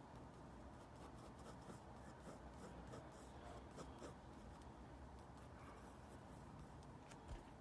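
Faint, quick, repeated strokes of a drawing tool scratching on paper.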